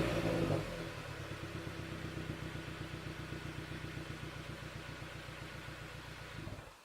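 Hyundai YF Sonata's four-cylinder engine heard through an aftermarket WABBP dual-muffler exhaust, tuned for a deep low tone. The engine settles from a rev to a steady, even idle, and the sound cuts off near the end.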